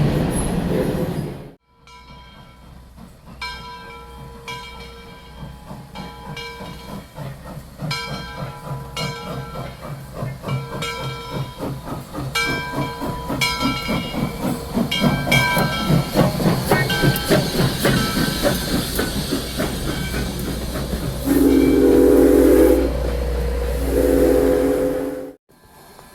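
Steam locomotive getting under way, its exhaust chuffs coming faster and faster, then two long blasts on its steam whistle near the end.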